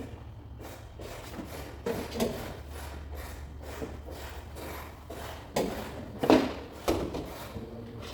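Scattered knocks, scrapes and rubs of tools working a car hood during paintless dent repair, loudest a little past halfway, over a steady low hum.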